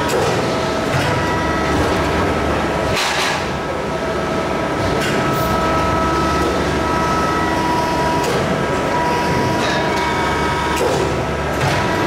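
Steady machinery noise of a large hydraulic press brake at work on the shop floor: a constant hum with a few faint whining tones. Short clanks or hisses come about six times, irregularly spaced.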